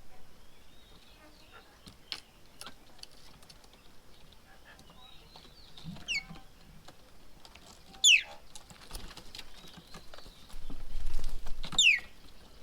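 Birds calling, with a few sharp whistled notes that fall steeply in pitch, about six and eight seconds in and again near the end, among scattered short clicks. A low rumble just before the end is the loudest sound.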